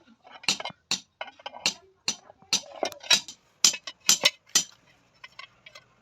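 Hand hammer striking the iron sheet of a tawa: sharp, irregular metallic strikes about two a second, easing off to light taps near the end.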